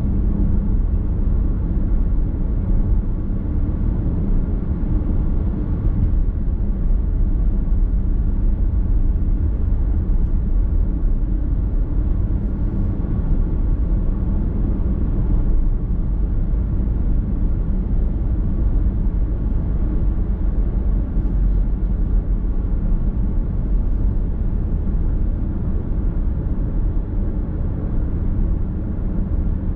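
Steady low rumble of a car driving on the road, tyre and road noise with the engine underneath, heard from inside the cabin.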